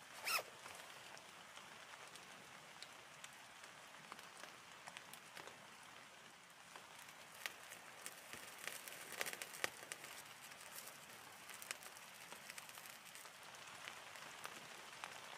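Light rain falling on the ground and leaves, a faint steady patter dotted with scattered sharp ticks of drops, denser about nine seconds in. A brief, loud, wavering high-pitched sound stands out just after the start.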